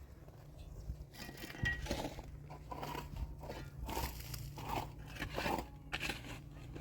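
Irregular crunching and scraping sounds, several short strokes a second, over a faint low hum.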